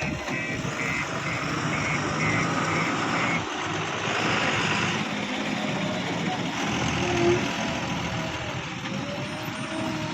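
Heavy machinery engine running steadily, with a reversing alarm beeping about three times a second that stops about three seconds in.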